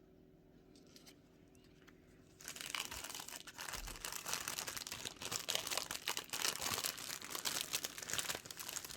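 Packaging crinkling and rustling as it is handled, starting about two and a half seconds in after a quiet start.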